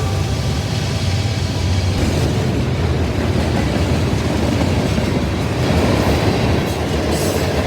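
Norfolk Southern freight train's cars rolling past, a loud, steady, unbroken sound of wheels on the rails.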